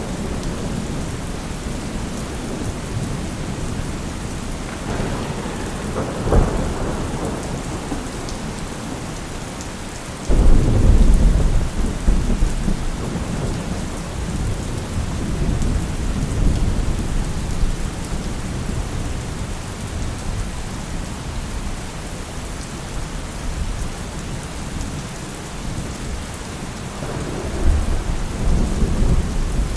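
Steady rain with rolling thunder. A rumble comes about five seconds in, then a sudden loud clap about ten seconds in that rumbles on for several seconds, and another rumble near the end.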